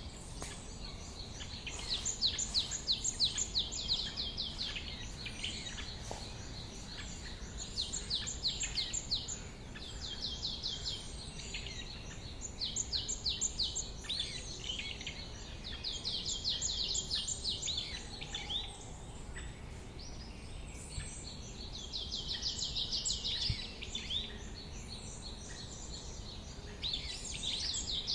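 A songbird singing the same fast trilled phrase of quick repeated notes over and over, a phrase every few seconds, over a steady low background rumble.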